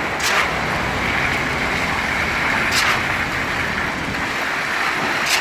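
Steady road traffic noise, with three short hisses about two and a half seconds apart.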